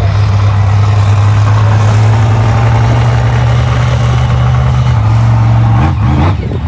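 Monster truck engine running loud and steady at a low idle, its pitch dipping and shifting briefly about six seconds in.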